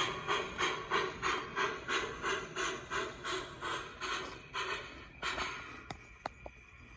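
HO-scale MTH Big Boy 4005 model steam locomotive's onboard sound system chuffing about three times a second, the chuffs fading away over about five seconds. A few sharp clicks follow near the end.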